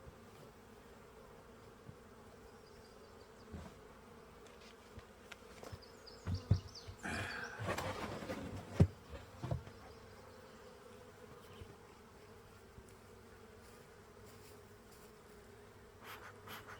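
Honeybees buzzing steadily around an open hive, with a few knocks and a short stretch of rustling and handling noise in the middle as the hive is closed up.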